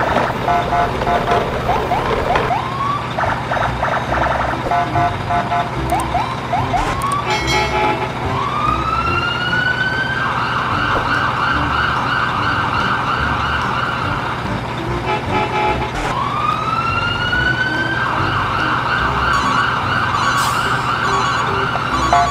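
Siren sound: twice a whoop rises and settles into a high wavering wail held for several seconds, among shorter repeated rising chirps and beeps.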